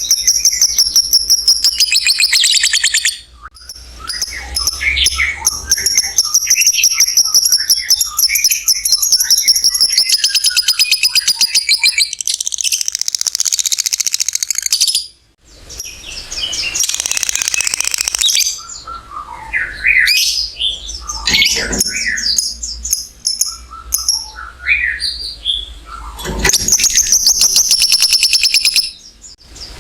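Lovebird singing its long 'ngekek' chatter: very fast, high-pitched trills held for several seconds at a time. Between the runs come short breaks with scattered chirps, and another long trill comes near the end.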